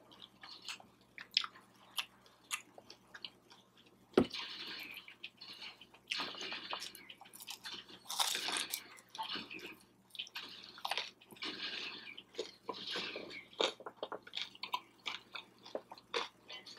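Close-up crunching and chewing of a crispy fried cheeseburger egg roll: irregular crackles of the wrapper between wet chewing sounds. A sharp crack about four seconds in is the loudest sound.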